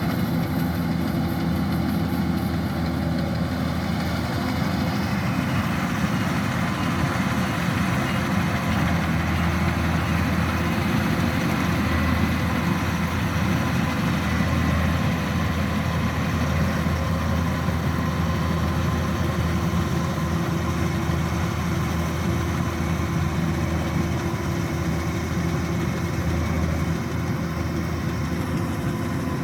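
Kubota DC-105X rice combine harvester's diesel engine running steadily as it cuts rice: an even, continuous machine drone with a strong low hum.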